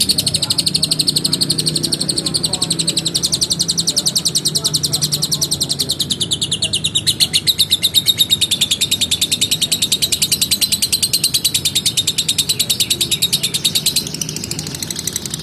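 Lovebird in a long ngekek: one unbroken, rapid and even chatter of high, shrill notes that stops about a second before the end.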